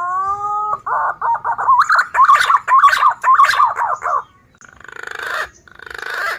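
Recorded green pigeon (punai) call played as a bird-trapping lure. It opens with a rising whistled note, runs into a quick series of warbling notes, and ends with two harsher, rattling bursts.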